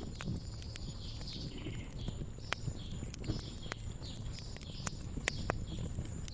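Wood fire crackling, with scattered sharp pops over a low steady rumble, and small birds chirping repeatedly in the background.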